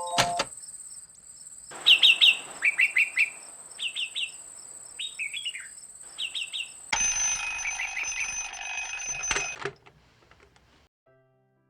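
Small birds chirping in short quick runs of two to four notes, over a steady high tone; a denser burst of chirping follows, then it cuts off about ten seconds in.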